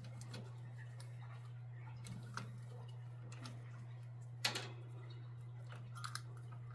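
A few light, scattered clicks and taps from handwork on a metal bird cage, the sharpest about four and a half seconds in and a quick double tap near the end, over a steady low hum.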